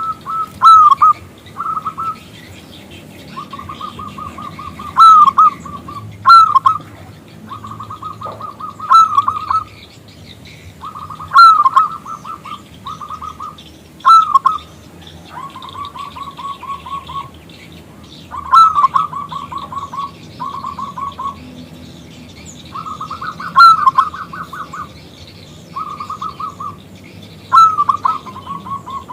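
Zebra dove (perkutut) cooing: repeated phrases of fast, purring pulsed notes held at about one pitch, each set off by a loud hooked note, with short gaps between phrases.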